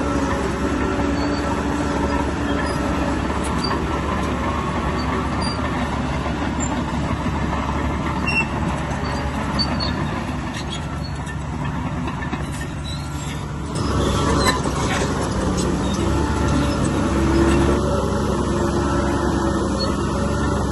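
Heavy earth-moving machinery running: the steady drone of a large diesel engine working, which turns abruptly louder about fourteen seconds in.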